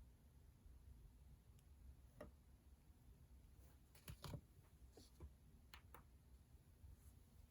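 Near silence in a small room, broken by a handful of faint clicks and taps from desk work with pens and stationery, the loudest a few close together about four seconds in.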